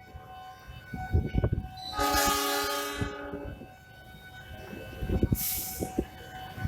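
Train horn sounding one blast of about a second and a half, a couple of seconds in, over a low rumble and irregular knocks; a short hissing burst follows about two seconds later.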